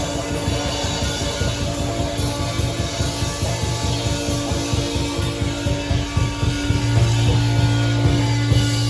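Loud live rock band playing, with distorted guitar and bass holding low notes over fast, dense drumming. The held notes swell about seven seconds in.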